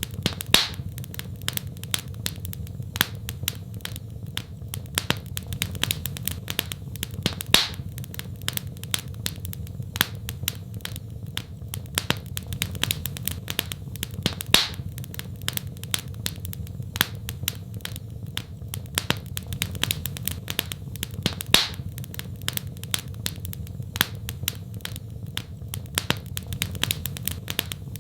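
Wood fire in a fireplace crackling: a dense run of small snaps with a louder pop about every seven seconds, over a steady low rumble.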